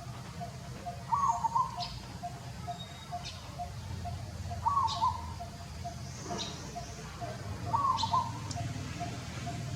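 Birds calling: a short two-part call repeats about every three seconds over a steady, quick run of soft ticking notes, with brief high chirps in between. A low steady rumble lies underneath.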